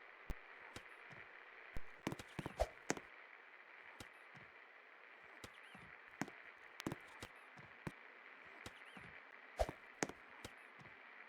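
Best Electric Works Gold Medal 48-inch ceiling fan running with a faint steady hum and a thin high whine, overlaid by irregular sharp clicks and knocks.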